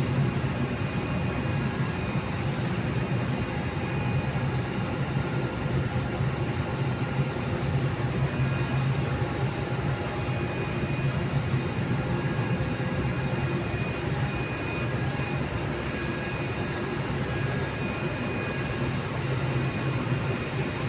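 Machinery running steadily, with a low hum and a faint high whine that comes and goes.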